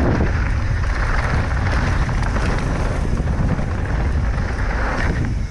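Mountain bike descending a dirt trail at speed: steady wind buffeting on the microphone over the rolling rumble of the tyres.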